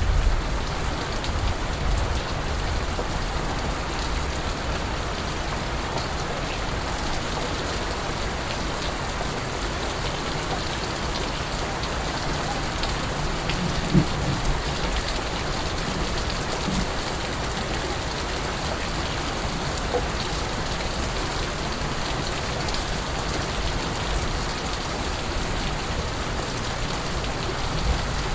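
Steady rain falling, an even hiss of drops, with a brief low thump about halfway through.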